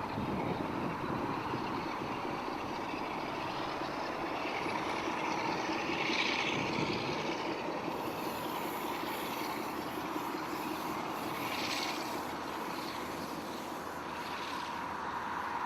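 A Brush Class 47 diesel locomotive working a train, its Sulzer V12 engine running steadily with rail noise. Twice, about six and twelve seconds in, there is a brief hiss.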